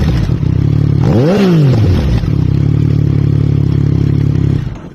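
Yamaha MT-09's three-cylinder engine idling through its exhaust, blipped once to a quick rev about a second in and falling straight back to a steady idle. The sound drops away near the end.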